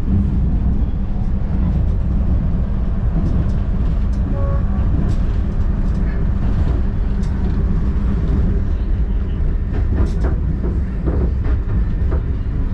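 Railway train running: a steady low rumble with scattered short clicks, and a brief faint tone about four seconds in.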